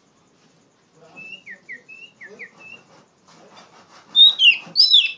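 Oriental magpie-robin singing: soft, short whistled slurs at first, then loud, sweeping whistled phrases near the end.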